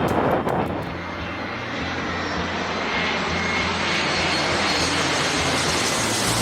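Jet airliner engines running as the plane passes, a steady broad rush with a low hum and a high whine, growing a little louder after the first second. Brief crackling in the first second.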